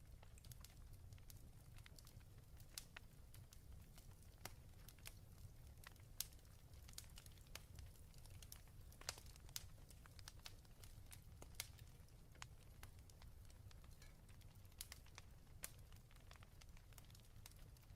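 Faint crackling fireplace: irregular sharp pops and snaps of burning wood over a steady low rumble.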